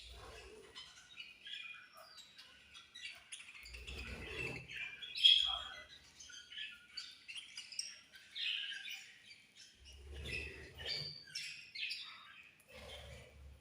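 A group of budgerigars chirping and chattering in quick, overlapping high-pitched chirps, with one sharper, louder chirp about five seconds in. A few soft low thumps come in between.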